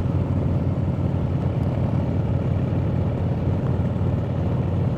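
Harley-Davidson V-twin motorcycle engine running steadily while cruising on the highway, a low, even drone.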